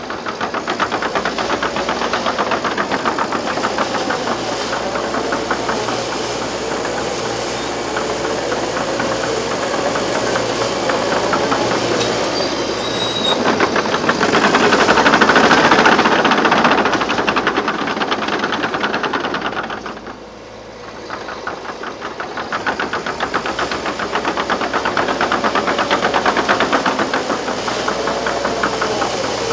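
Liebherr PR 726 crawler dozer's diesel engine running under load with a fast, steady clatter from the machine and its tracks. It swells loudest about halfway through, drops off sharply for a moment a few seconds later, then builds up again.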